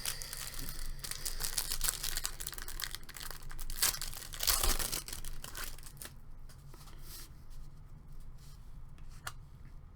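Trading-card pack wrapper being torn open and crinkled, a dense crackling for about six seconds, then quieter handling of the pack with a few light ticks and one sharp click near the end.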